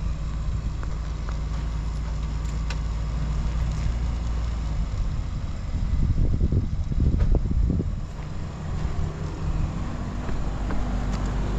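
A vehicle engine running steadily, with a louder, rougher low rumble for a couple of seconds about halfway through.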